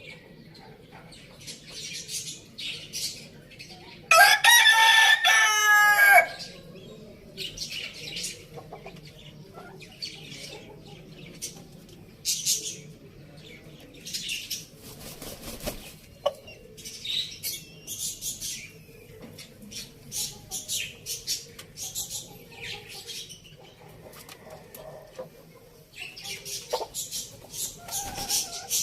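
A rooster crows once, loud, about four seconds in, the call lasting about two seconds. Small birds chirp in short high bursts throughout.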